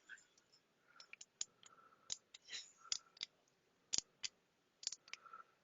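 Faint, scattered sharp clicks and taps of small hard parts being handled, a dozen or so at irregular intervals.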